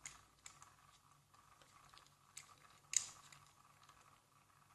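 Faint, sparse clicks and taps from a die-cast toy car being handled and turned in the fingers, the sharpest about three seconds in.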